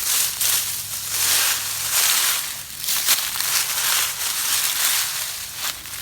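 Handfuls of fallen water oak leaves being scooped up and crushed by hand, in repeated rustling surges about once a second.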